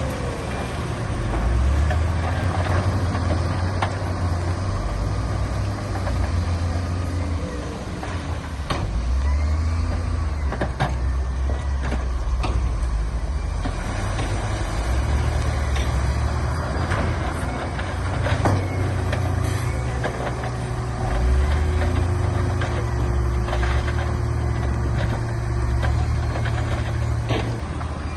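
Heavy diesel earthmoving machinery running, its low engine note rising and falling as it works, with scattered sharp clanks.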